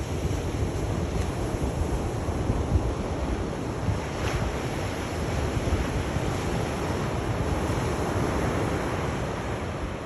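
Sea surf: waves washing in steadily, with a constant low rumble.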